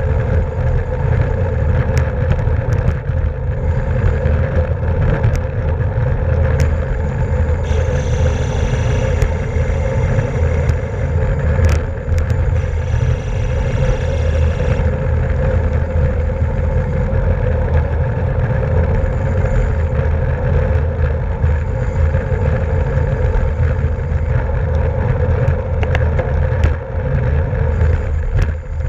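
Wind rushing over the microphone of a camera on a racing bicycle at speed, with tyre and road noise and scattered small clicks and rattles. A high buzz comes in twice, for about three seconds each time, near the middle.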